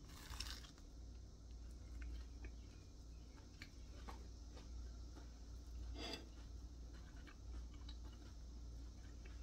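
A crunchy bite into a toasted, crispy sourdough grilled cheese sandwich just after the start, followed by faint chewing with small scattered crackles and one more brief crunch about six seconds in.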